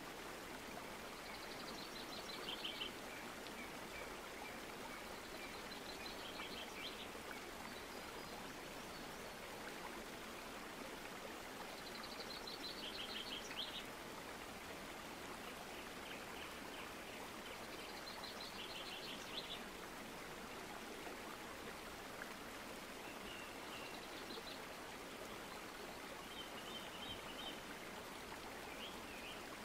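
Steady rushing noise with a bird's short trilled call repeating every five or six seconds.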